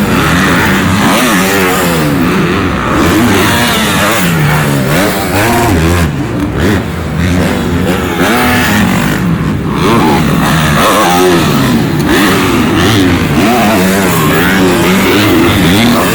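Several supercross dirt bikes running on the track, loud, their engines revving up and down in overlapping rising and falling pitches as riders open and shut the throttle.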